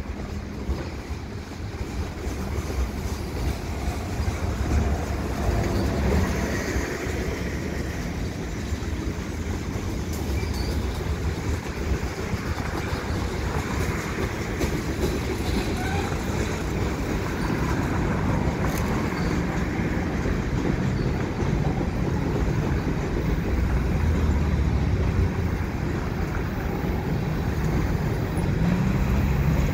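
Freight cars of a slow CN mixed freight train, scrap-loaded gondolas and covered hoppers, rolling past: a steady noise of steel wheels running on the rails.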